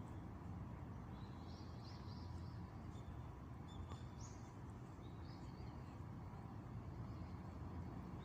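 Faint chirps of small birds, a few short high calls in the first two-thirds, over a steady low outdoor rumble.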